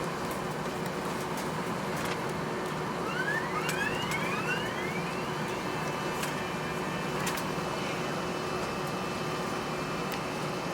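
Steady hum and hiss of an Airbus A320-200's cabin. About three seconds in, a whine rises in pitch over a couple of seconds, then holds as a steady high tone.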